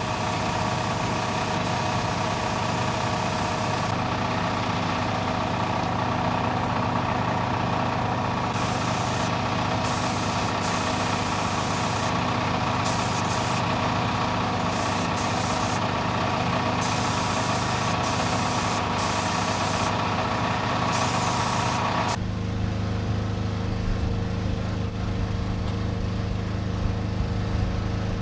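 Engine-driven air compressor running steadily, with the loud hiss of a blast gun firing glass media, switched on and off in repeated stretches. The blasting stops a little over two-thirds of the way through, and the compressor engine runs on.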